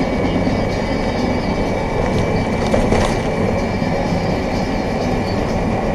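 Steady rumble and road noise of a vehicle driving at speed, with a faint high whine held throughout.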